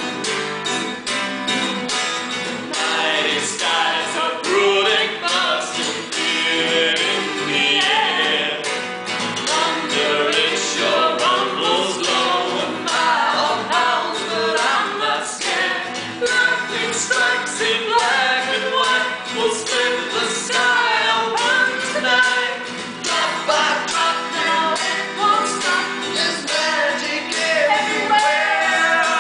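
Voices singing a song together in harmony, with rhythmic instrumental accompaniment.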